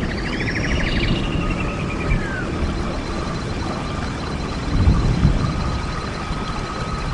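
Birds calling over a steady low wind rumble. Near the start come whistled notes sliding downward and a quick rattling trill, followed by a long thin high whistle held for several seconds.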